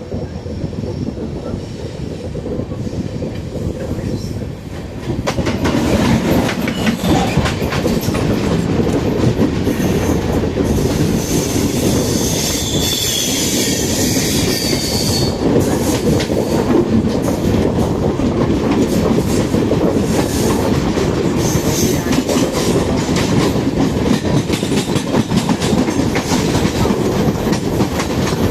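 Train running on the rails, its wheels clattering over the rail joints. It gets louder about five seconds in, and a high wheel squeal sounds for a few seconds around the middle.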